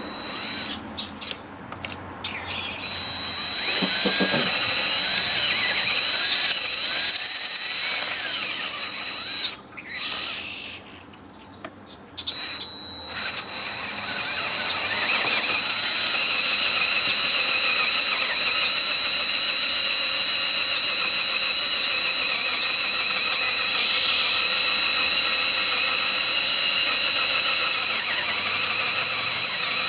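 Power drill boring into metal, the bit giving a high, steady squeal. It stops briefly twice around a third of the way in, then runs on.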